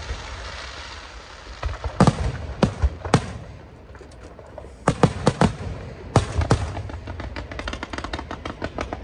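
Fireworks going off: a series of sharp bangs about two seconds in and again around the middle, over a hissing crackle, then a fast rattle of small popping cracks, several a second, through the last few seconds.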